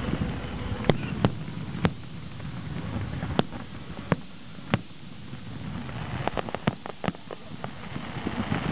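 Fireworks shells bursting: sharp bangs at irregular intervals, with a quick run of reports about six to seven seconds in, over a steady background hiss.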